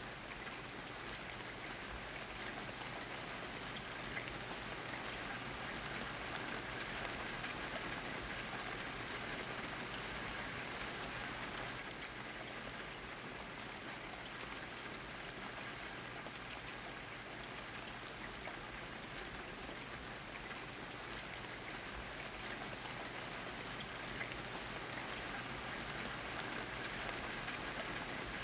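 Steady rain falling, an even hiss with small scattered drop clicks, holding at one level throughout.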